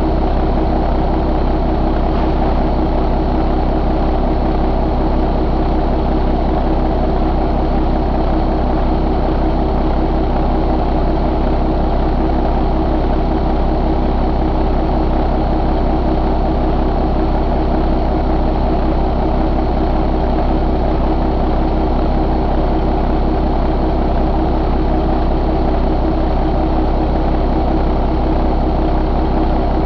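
Paccar MX13 inline-six diesel engine running steadily at an even speed, with no change in pitch or loudness.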